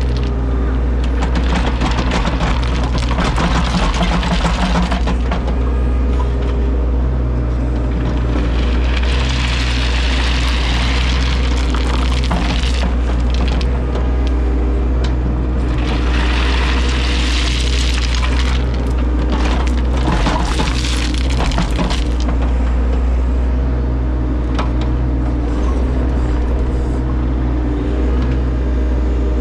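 A heavy-equipment diesel engine runs steadily at a constant pitch. Over it come three spells of louder crackling, rushing noise, in the first few seconds, around ten seconds in and around eighteen seconds in.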